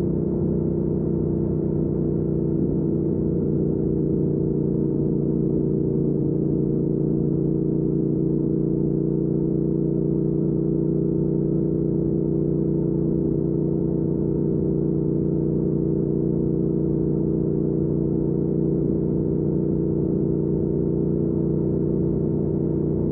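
2019 Triumph Speed Twin's 1200 cc parallel-twin engine running at steady revs through a Weslake Shorty Pro exhaust, an unchanging drone while the bike cruises.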